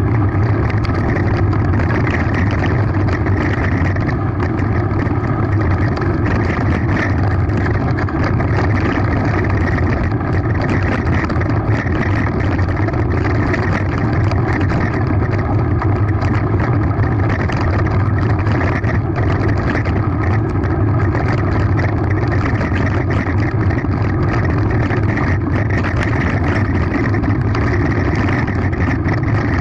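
Mountain bike descending at speed on a gravel forest road: a steady low rumble of wind buffeting the onboard camera's microphone, with a constant rapid rattle of tyres and frame over the gravel.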